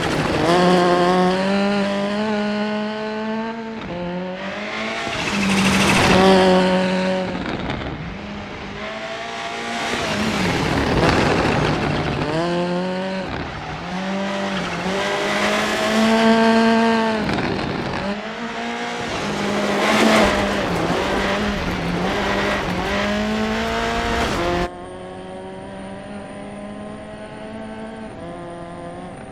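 Rally car engine revving up and dropping back again and again as it is driven hard through the gears on a stage. Near the end the sound drops suddenly to a quieter, steadier engine note with a faint high whine.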